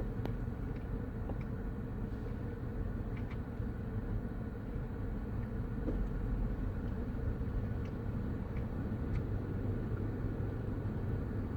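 Steady low rumble of vehicle traffic and engines around a parking lot, with a few faint sharp clicks scattered through it.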